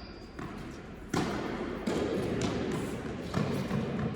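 Tennis ball rally on an indoor court: a run of about five sharp knocks from the ball being struck by rackets and bouncing on the court, the loudest about a second in.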